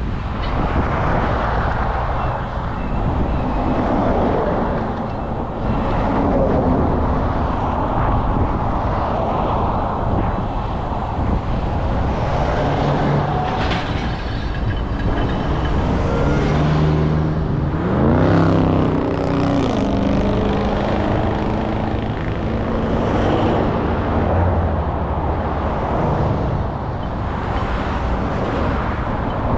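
Road traffic and a slow-moving freight train rumbling past, a steady mix of engines and wheel noise. About eighteen seconds in, one vehicle's engine rises in pitch as it speeds up.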